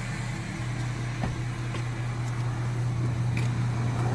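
A vehicle engine idling: a steady low hum that grows slowly louder, with a few faint clicks.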